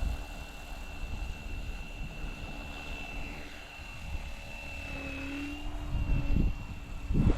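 Small electric RC helicopter with a direct-drive motor, flying with a steady high whine from the motor and rotors. A lower tone rises briefly about five seconds in. Wind gusts buffet the microphone near the end.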